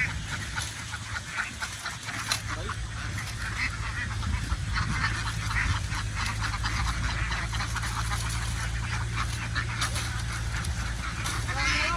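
A large flock of domestic ducks quacking, many calls overlapping without a break, over a steady low hum.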